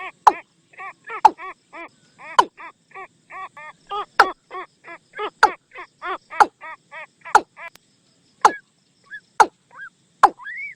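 Watercock calling: a quick, rhythmic series of hollow repeated notes, about three to four a second, that thins out to a few scattered notes near the end. Sharp clicks come about once a second throughout.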